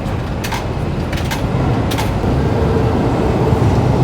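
Meat vending machine at work dispensing a pack: several sharp clicks, then a steady motor hum, over a loud low rumble.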